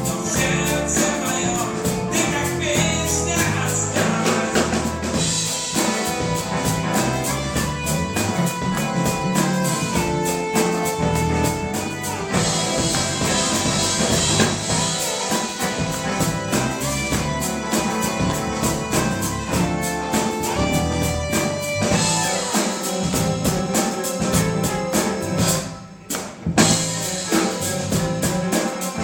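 Live band playing, with a drum kit keeping a steady beat under sustained instrumental notes. The music drops out briefly about three seconds before the end and comes back with a loud hit.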